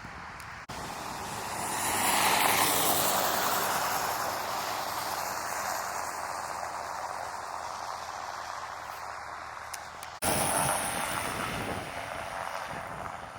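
Vehicle driving past on a snowy road: a rush of tyre and road noise that swells and slowly fades. It breaks off suddenly about ten seconds in, and another loud rush begins.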